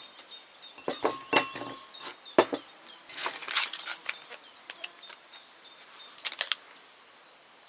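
Irregular clatter of cooking gear and utensils being handled: sharp knocks and clicks, loudest about one and two and a half seconds in, with a cluster of quicker clicks around three and a half seconds.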